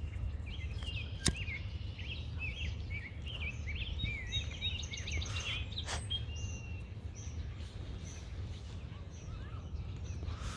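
Songbirds chirping in quick, twittering bursts, busiest through the first half and thinning out later, over a steady low rumble. A single sharp click sounds a little over a second in.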